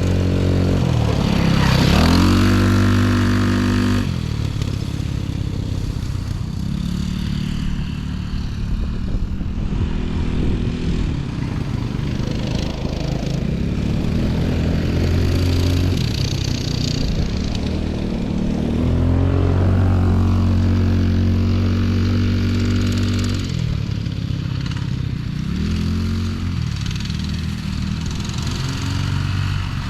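Small off-road vehicle engine running under way, its pitch rising and falling repeatedly as it speeds up and eases off.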